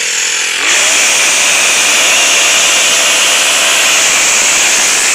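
Small 33cc four-stroke pole saw running at high revs, with the throttle opening further less than a second in and then holding steady.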